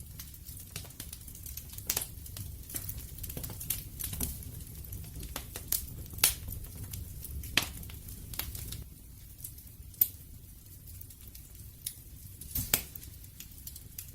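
Wood fire crackling: irregular sharp pops and snaps, a few of them much louder, over a low steady rumble of the flames.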